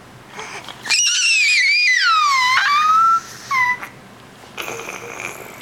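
A small child's high-pitched, drawn-out vocal squeal of about two seconds, sliding down in pitch and then turning slightly up, followed by a short squeak. Near the end comes a breathy, noisy sound.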